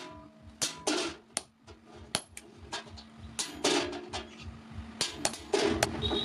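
Blacksmith's hammer striking steel on an anvil in a quick, irregular series of sharp metallic blows, about three a second, each with a short ring: forging a sickle blade.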